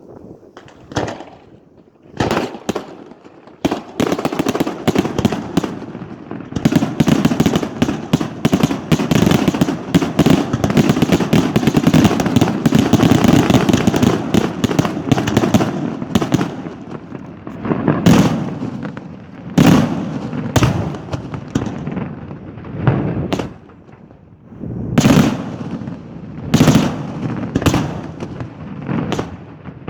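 Daytime fireworks battery going off: a few single bangs, then a dense, rapid volley of bangs and crackling for about twelve seconds, then separate loud bangs every second or two.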